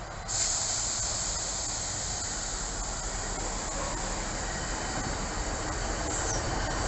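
Class 150 Sprinter diesel multiple unit running into the platform and past at low speed, a low rumble under a steady high hiss that starts abruptly just after the start.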